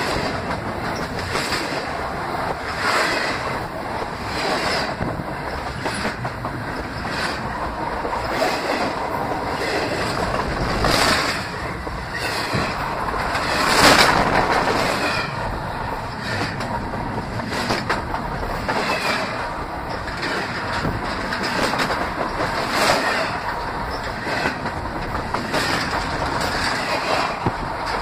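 Canadian Pacific train cars rolling directly over a camera set between the rails: a steady rumble and rattle with repeated wheel clacks, loudest about halfway through.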